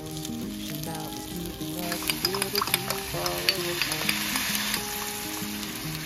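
Egg-battered slices of chicken breast sizzling in hot oil in a frying pan. About two seconds in the sizzling turns louder and crackly as seasoning sauce is poured into the pan, then settles back near the end.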